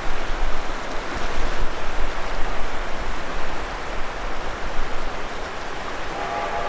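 Steady, loud rushing of fast river water in snow-melt flood. A steam locomotive's whistle begins to sound near the end.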